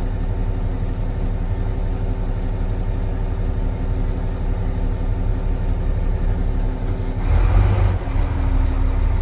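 Diesel engine of a Volvo A25F articulated haul truck running steadily under light load as it creeps forward in first gear, with a louder rush of noise for about a second, about seven seconds in.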